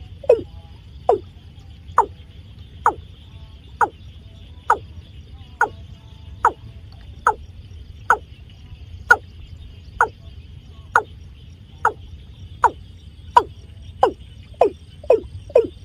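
Watercock calling: a series of short, hollow notes, each sliding steeply down in pitch, about one a second, coming quicker near the end.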